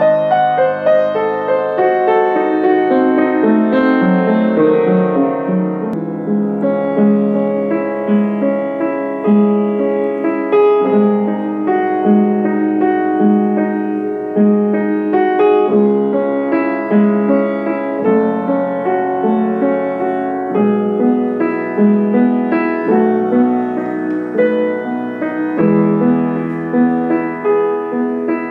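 Piano being played: a slow piece with melody over a steady low note repeated about once a second.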